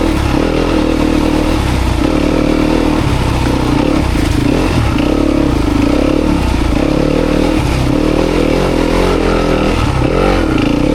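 Dirt bike engine ridden over rough off-road ground, the throttle opening and closing about once a second, with a quick rising rev near the end.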